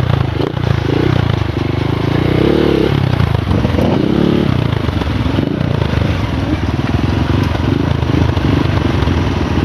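Trail motorcycle engine running hard, its revs rising and falling again and again as the bike is ridden along a rough track.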